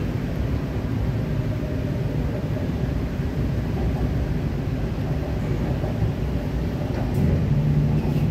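Running noise heard inside the cabin of an MTR K-Train electric multiple unit under way: a steady low rumble of wheels on rail. About seven seconds in, a low steady hum grows louder.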